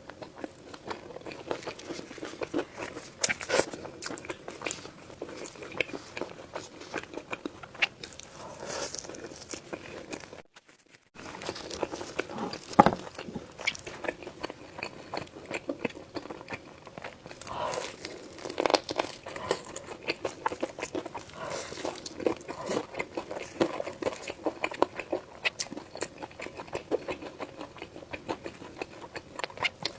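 Close-miked eating sounds: crunchy bites and wet chewing of fast food, with irregular crackles throughout. The sound drops out briefly about ten seconds in, and a sharp loud click comes a couple of seconds later.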